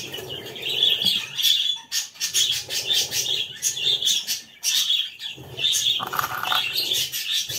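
Small caged breeding birds chirping continuously: many quick, high-pitched chirps overlapping one another.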